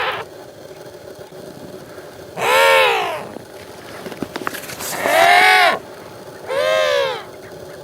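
African penguin calling: three separate long calls, each arching up and then down in pitch, about two seconds apart.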